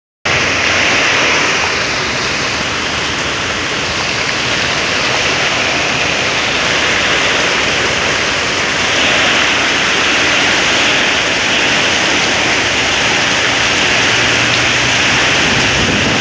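Heavy rain and strong wind of a severe thunderstorm under a tornado warning, a loud, steady rushing.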